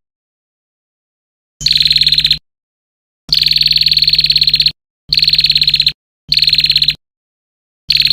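Recorded filler-call track of the kind played to train white-rumped shamas: a rapid, buzzy pulsed trill repeated in five bursts lasting from half a second to about a second and a half, cut apart by dead-silent gaps, with a low hum under each burst.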